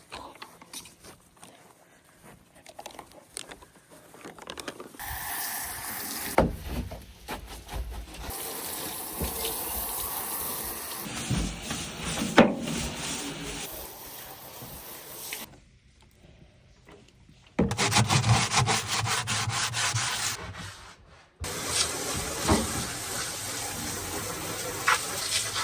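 Rubbing and scraping noises in several separate stretches that start and stop abruptly, with a few sharp knocks.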